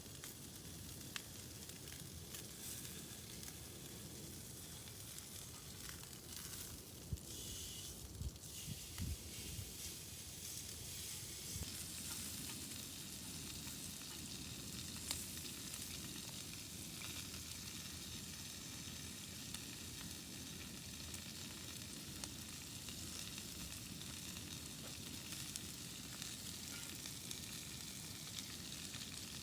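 Faint, steady sizzling, as of food frying in a pan, with a few small clicks about seven to nine seconds in.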